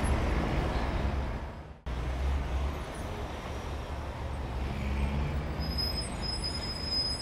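Steady low rumble of road traffic. It cuts out abruptly a little under two seconds in and picks up again a moment later, slightly quieter.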